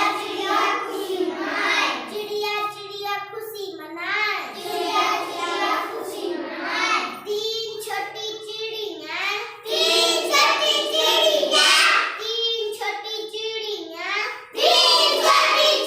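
A child singing a Hindi nursery rhyme about a little bird, in a small room.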